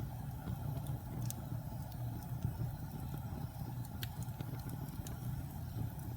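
Wood fire burning in a fireplace: a steady low rumble of flames with sparse sharp crackles and pops, the clearest about a second in and about four seconds in.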